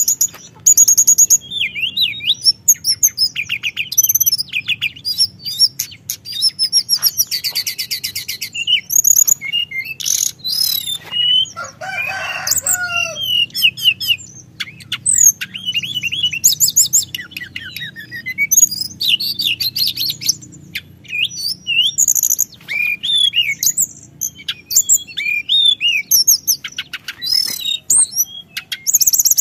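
Sunda bush warbler (teledekan gunung) singing continuously in fast, varied phrases: sharp high chips, slurred whistles and rapid rolling trills with hardly a pause, over a faint steady low hum.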